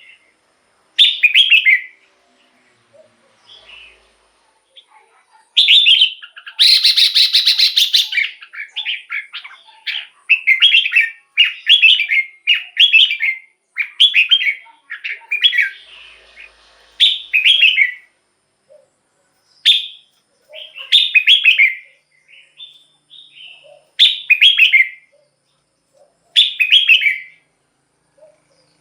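Red-whiskered bulbul singing: loud, short warbled phrases repeated with brief gaps, coming about one a second through the middle. About a quarter of the way in there is a harsher rattling burst lasting over a second.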